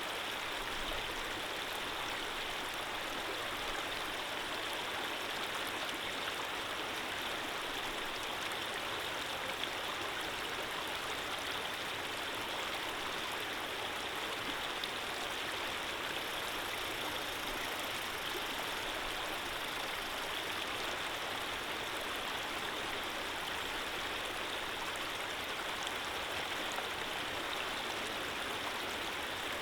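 Running water of a gentle stream flowing steadily, an even, unbroken hiss of water.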